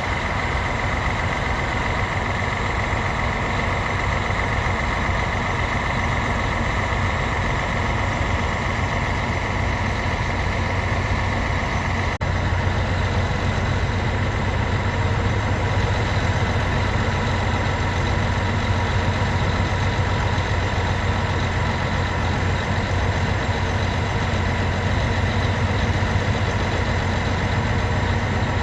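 Mount Washington Cog Railway train's locomotive running steadily, with a constant low engine hum and a steady higher whine. A brief click comes about twelve seconds in, after which the low hum is a little stronger.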